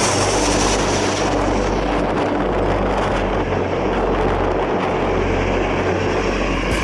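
Jet airliner engine noise: a loud, steady roar with a high whine that fades over the first two seconds, and wind buffeting the microphone underneath.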